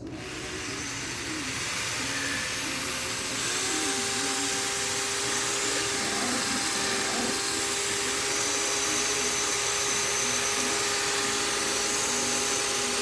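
Electric drill motor running steadily, most likely driving a paddle that mixes the two-part expanding foam; it gets louder about three and a half seconds in and settles into a steady hum.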